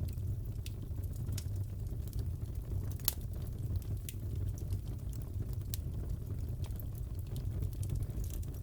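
Fireplace crackling: a steady low rumble of burning logs with scattered sharp pops and snaps, the loudest pop about three seconds in.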